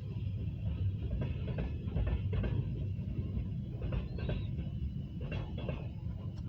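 Norfolk Southern freight train rolling past: a steady low rumble with irregular clanks from the cars.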